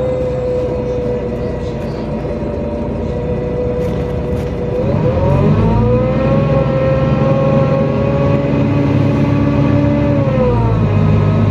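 NefAZ-5299 city bus heard from inside the cabin while driving: engine and drivetrain rumble under a steady whine that rises about five seconds in as the bus picks up speed, holds, then drops near the end.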